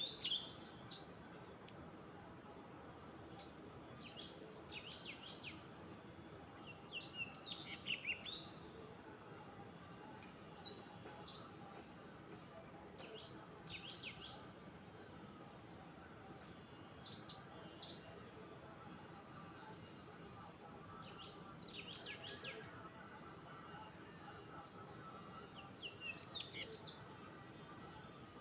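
A songbird singing short, high, warbling phrases about a second long, repeated every two to four seconds, over a steady background hiss.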